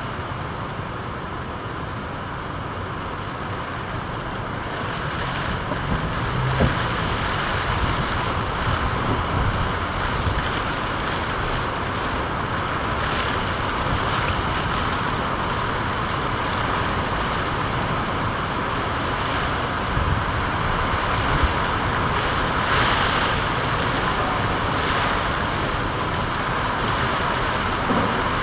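Steady rain falling, an even hiss that swells a little a few seconds in and then holds.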